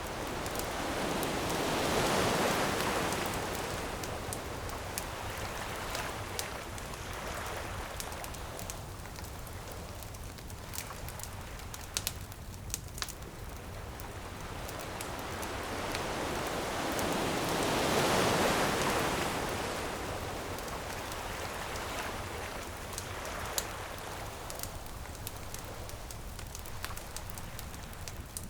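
Ocean waves washing ashore in two slow swells about sixteen seconds apart, over a steady crackle of a campfire with frequent sharp pops.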